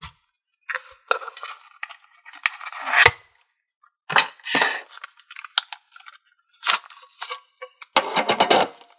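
Foxfire thinking putty being stretched, pulled and pressed by hand: a series of short, irregular sticky crackles and snaps, about eight in all, with pauses between them.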